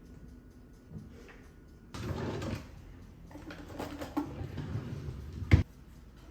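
Household handling noises: a brief rustle, scattered clatter, then one sharp knock, like a door or cupboard shutting, about five and a half seconds in.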